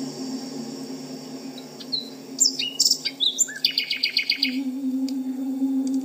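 Songbird chirping: a few sharp high chirps about two seconds in, then a fast, even trill of about seven notes, over a steady low hum.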